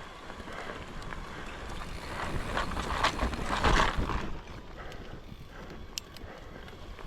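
Mountain bike riding over a dirt singletrack: tyre noise and the clatter of the bike over rough ground, loudest a few seconds in, with wind on the microphone.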